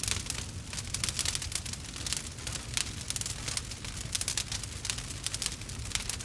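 Wood fire crackling with dense, irregular sharp snaps and pops over a steady low rumble.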